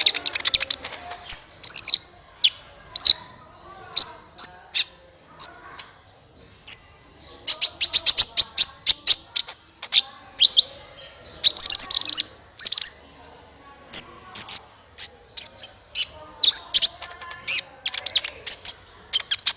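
Kolibri ninja sunbird song: rapid series of sharp, high-pitched chirps and quick trills, with dense bursts of notes now and then.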